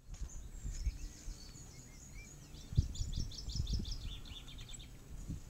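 A songbird singing: a quick series of high notes that drops in pitch and ends in a fast trill, with a few single chirps before it. Underneath is a low rumble with a couple of dull knocks.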